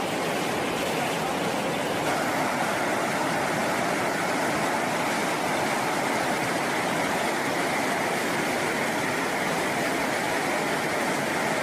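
Fast-flowing, swollen river water rushing in a steady, unbroken hiss.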